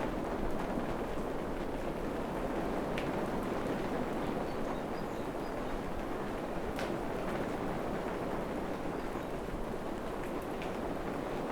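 Steady rain falling through forest foliage, a continuous even patter with an occasional distinct drop hitting close by.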